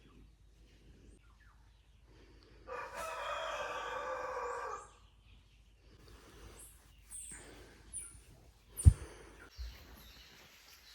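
One long, drawn-out bird call lasting about two seconds, followed in the second half by a few short, high chirps. A single sharp thump near the end is the loudest sound.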